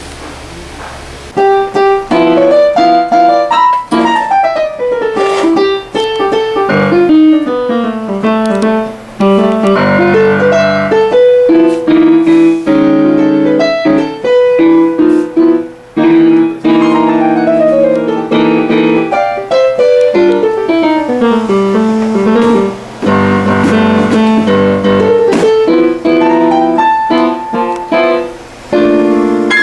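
Piano playing, starting about a second in: fast runs sweeping down and up the keyboard between held chords.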